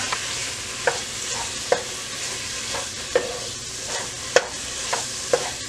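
Dove meat and flour sizzling in hot oil in a pot while a wooden spoon stirs them, the flour cooking to thicken the gravy before water is added. Irregular sharp knocks come from the spoon striking the pot, the loudest a little past the middle.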